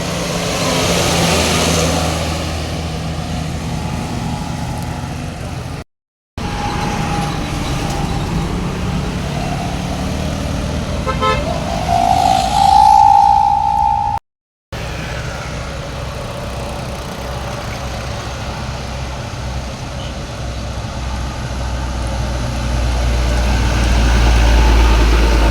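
Road vehicles driving past with engine drone and tyre noise. A vehicle horn sounds for about two seconds around the middle, and a heavy vehicle's low rumble grows loud near the end. The sound drops out twice for a moment.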